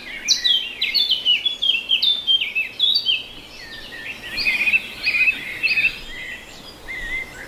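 Songbirds chirping and singing in quick, overlapping high phrases, with a short lull about six seconds in.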